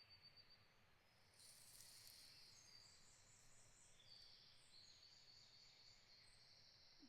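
Faint forest ambience with high-pitched trilled birdsong coming in about a second and a half in: a run of buzzy notes held at several pitches, stepping up and down.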